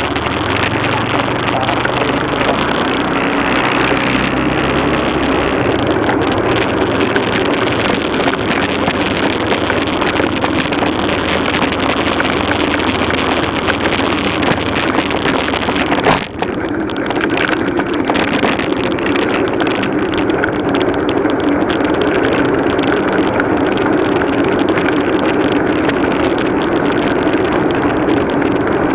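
Motorcycle engine running on the move, under a steady rush of wind over the microphone. The sound drops out for an instant about sixteen seconds in.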